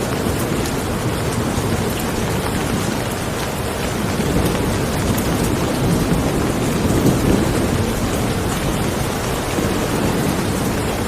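Steady rain falling, with a low rumble of thunder that swells about halfway through.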